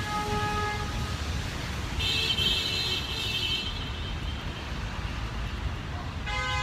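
City street traffic: a steady rumble of passing cars and trucks, with a high-pitched tone sounding for about a second and a half around two seconds in and another pitched sound starting near the end.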